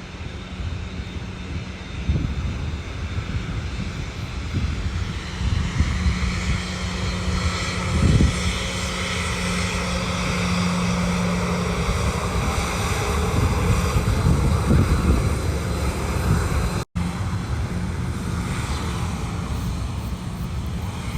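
Airliner's engines running as the aircraft passes the airport, a broad roar that builds over the first few seconds and stays loud through the middle before easing slightly. A brief dropout cuts the sound for a split second near the end.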